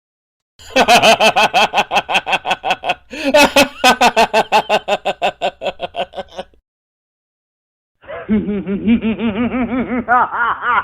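Two recorded laugh sound effects in a row: a long, rapid, pulsing laugh of about six seconds, then, after a short silence, a second, lower-pitched and duller-sounding laugh begins.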